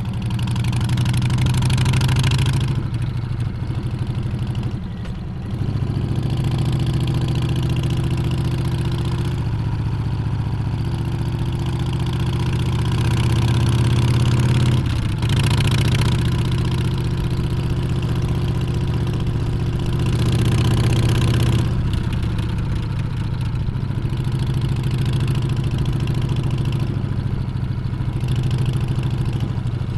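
Harley-Davidson Street Bob's Milwaukee-Eight V-twin engine and exhaust running under way on the road, the note rising and falling with the throttle. It dips briefly a few times, and wind rush on the microphone swells along with it.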